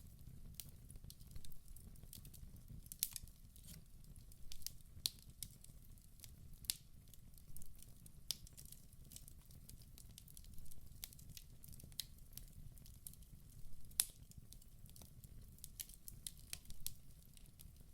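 Wood fire burning in a fireplace, crackling with frequent irregular sharp pops and snaps over a low steady rumble; one pop about three-quarters of the way through is louder than the rest.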